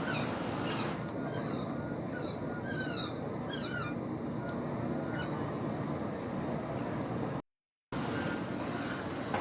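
Birds giving quick, sharply falling chirps, several in a row between about one and a half and four seconds in and a few fainter ones later, over a steady rushing background noise. The sound cuts out completely for a moment near the end.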